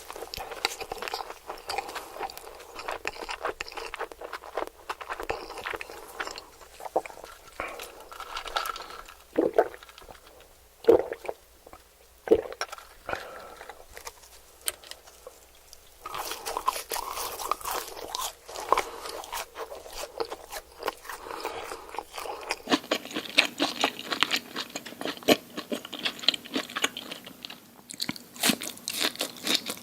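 Close-miked eating: crunchy bites and chewing, with a few loud sharp crunches near the middle and a change in sound partway through where the clips are cut.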